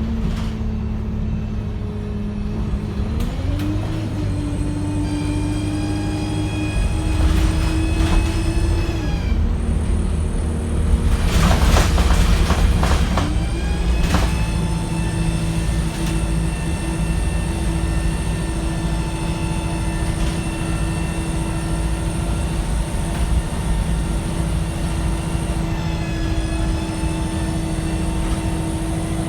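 Wright StreetLite single-deck bus running, its engine and drivetrain note climbing in pitch as it pulls away, with a steady high whine over it. A loud rushing, rattling burst comes about eleven seconds in and lasts a couple of seconds before the engine picks up again.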